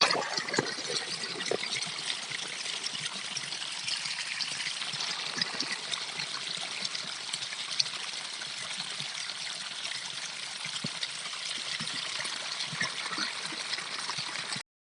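Stream of water trickling steadily, a continuous patter of fine splashes; it cuts off abruptly shortly before the end.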